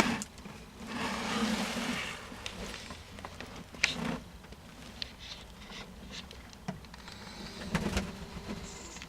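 Rustling and handling noise with a few light knocks and clicks, the loudest rustle about a second in.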